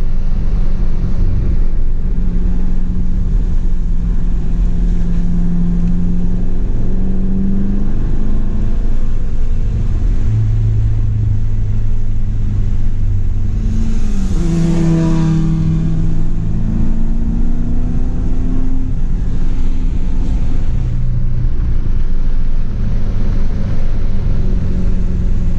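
C7 Corvette Grand Sport's 6.2-litre V8 heard from inside the cabin, running at part throttle on a wet track over a steady low rumble. Its pitch climbs and drops several times as the revs and gears change, with a louder burst of noise about 14 seconds in.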